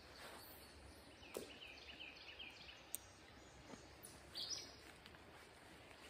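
Faint songbird singing a quick run of about six repeated notes, then a short higher note a few seconds later, with a few soft clicks in between.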